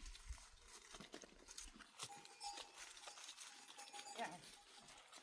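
Faint scattered pattering, with a brief animal call from livestock about four seconds in.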